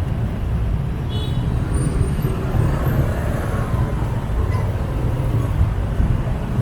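Motorbike traffic heard from a moving scooter: a steady low rumble of small engines and road noise, with a brief high-pitched tone about a second in.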